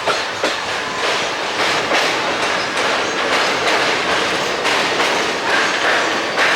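Passenger train running at speed, with a steady rumble of ICF coach wheels on the rails and repeated clacks as the wheels cross rail joints.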